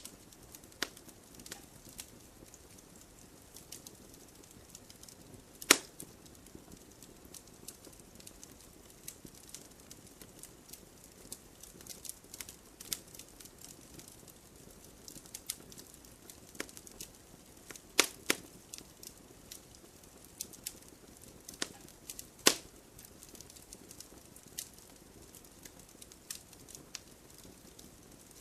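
Wood campfire crackling: scattered small snaps over a soft steady hiss, with three loud sharp pops about six, eighteen and twenty-two seconds in.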